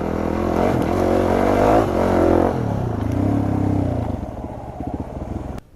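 Dirt bike engine running, its pitch rising and falling a little, then dropping back and fading to a slow putter before cutting off abruptly near the end.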